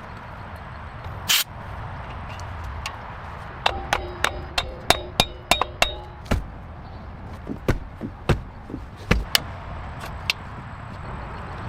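Metal tools or parts being handled and struck: a quick run of sharp clinks and taps, several ringing briefly, then a few scattered knocks, over a low steady hum.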